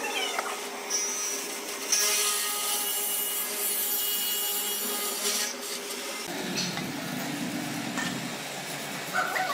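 A tool working wood, a steady scraping noise over a faint hum that grows loud about two seconds in and drops off after about five and a half seconds, giving way to a duller, lower rubbing.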